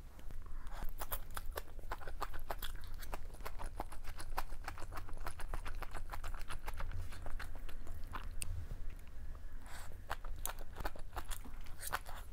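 Close-miked chewing of mala xiang guo with glass noodles and bean sprouts: crisp crunching and wet mouth clicks, many small irregular clicks a second.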